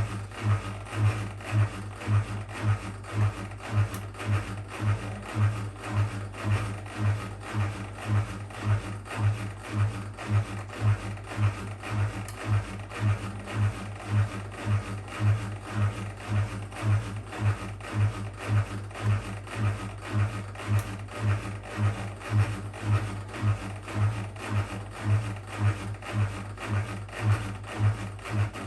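Whirlpool WWDC 7440 front-loading washing machine running its spin programme before the drum speeds up: a low hum that swells and fades evenly, about twice a second.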